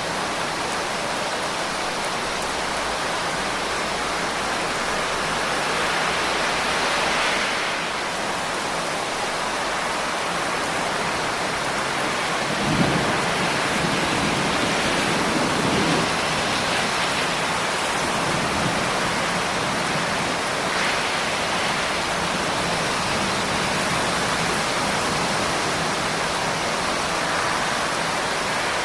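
Steady rain falling, an even rushing hiss, with a brief low rumble about halfway through.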